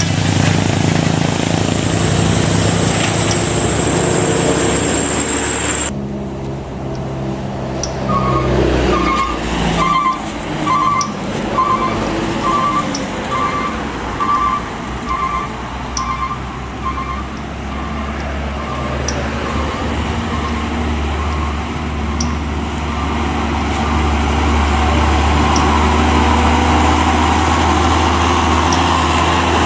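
Hino truck's diesel engine running on a steep climb, with a steady low drone. For a stretch in the middle, a short beep repeats about once a second.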